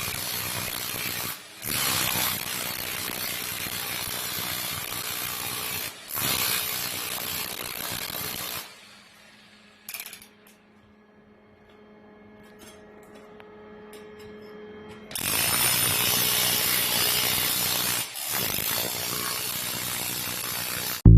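Electric demolition breaker hammering in several long runs, broken by short stops and a longer quiet pause in the middle.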